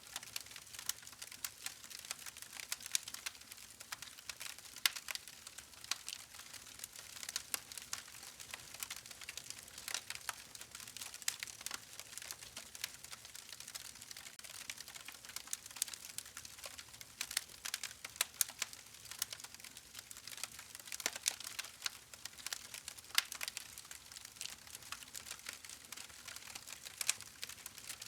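Wood fire crackling: quick, irregular snaps and pops over a soft hiss, with no steady rhythm.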